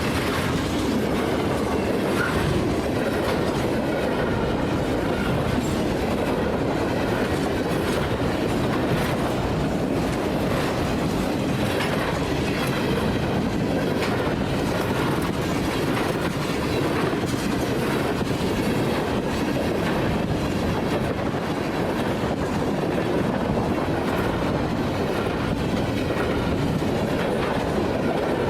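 Freight train cars rolling past with a steady rumble and a repeated clatter of wheels over the rail joints.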